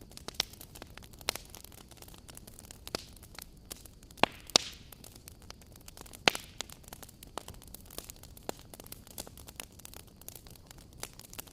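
Wood fire burning, crackling and popping with irregular sharp snaps over a soft steady hiss; a few louder pops stand out around the middle.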